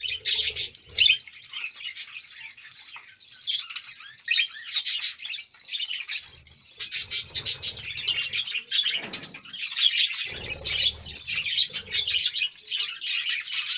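A flock of budgerigars chirping and chattering continuously, many birds calling over one another. Lower fluttering sounds come through underneath in a few stretches.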